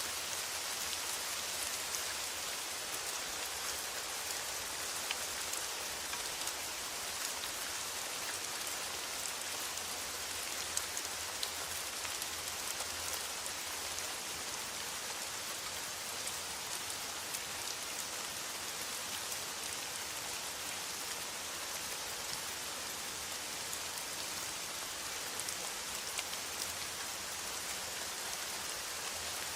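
Steady rain on a metal roof: an even, bright hiss dotted with many small drop ticks, unchanging throughout.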